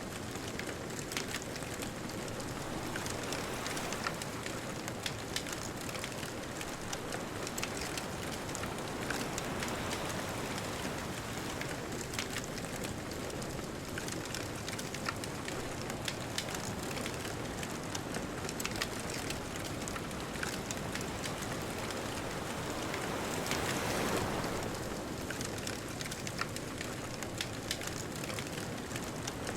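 Wood bonfire crackling with many small, sharp pops over a steady wash of distant ocean surf; a wave swells louder a little past the middle and then recedes.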